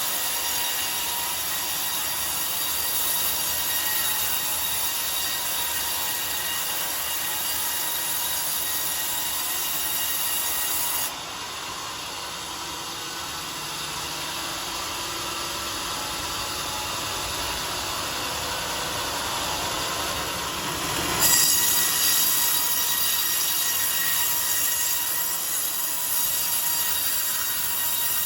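Sawmill circular saw blade cutting coconut wood with a steady high whine. The sound drops abruptly about a third of the way in and comes back louder about two-thirds of the way in.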